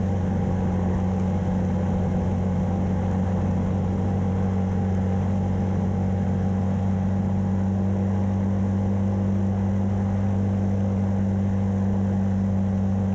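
Engine of a 1994 Yamaha Timberwolf ATV, a single-cylinder four-stroke, running at a steady pitch as the quad is ridden. The engine is losing power and starting to bog out.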